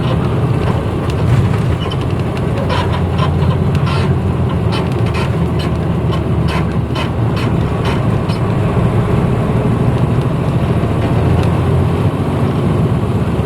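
1994 Hino Blue Ribbon bus's diesel engine running steadily under way, heard from inside the cabin as an even low drone. Scattered short clicks and rattles come through over the drone.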